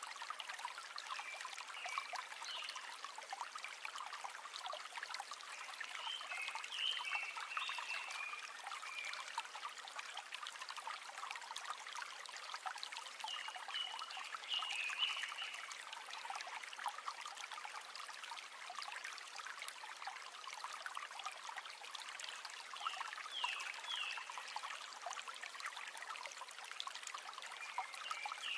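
A river running steadily, a dense stream of small water splashes and trickles, with short higher chirping sounds surfacing a few times.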